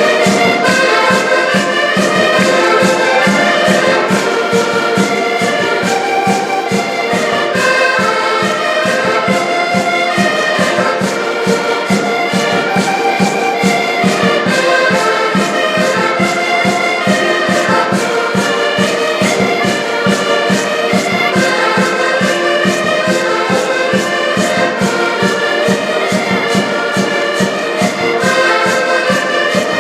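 Live band music: wind instruments play a melody in held, stepping notes over a steady, fast drumbeat.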